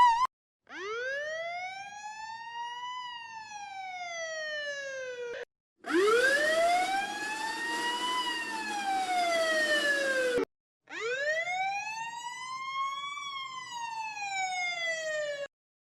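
Three police siren wails in a row, each a single slow rise in pitch that peaks and then falls away. Each stops abruptly, with a brief silence before the next. The middle wail is the loudest and carries a hiss of background noise.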